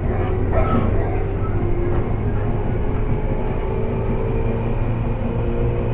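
Tobu 10030 series electric commuter train running, heard from inside its motor car: a steady rumble with a humming tone over it.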